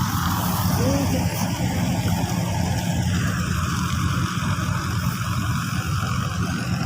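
Diesel engine of a farm tractor or combine harvester running steadily, a deep continuous hum with a change in its higher noise about three seconds in.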